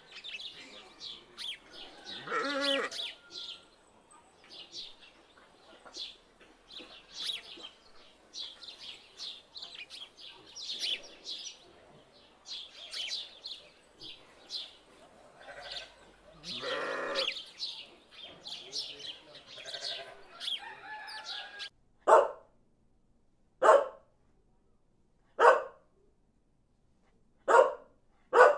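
A long run of short, high chirps and squeaks with two louder calls about 2.5 and 17 seconds in. Then, about 22 seconds in, a puppy barks in single yaps, one about every second and a half.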